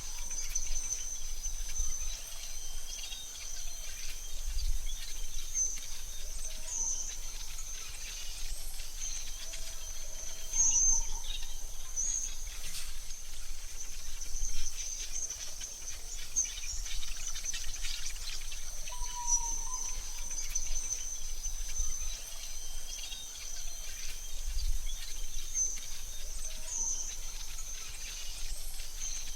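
AI-generated forest ambience: a steady high-pitched insect-like trill runs throughout, with scattered short bird chirps and a couple of brief mid-pitched bird calls over it.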